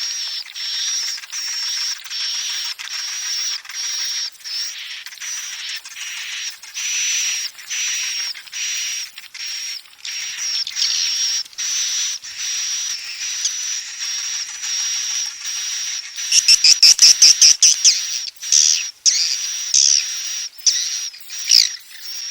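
Swiftlet lure recording: swiftlets twittering in a steady, high-pitched chatter, the roosting call that swiftlet farmers play to draw birds into a nest house. About sixteen seconds in a loud run of rapid clicking pulses, roughly seven a second, breaks through, followed by a few sharp chirps.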